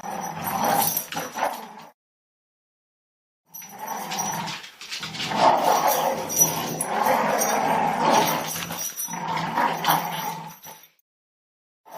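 A dog growling and whining while playing tug-of-war. It comes in two stretches: a short one at the start, then after a silent gap a longer one of several seconds.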